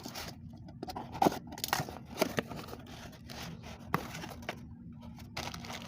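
Packaging being unwrapped, rustling and scraping, with scattered sharp clicks and taps as the pulley parts are handled.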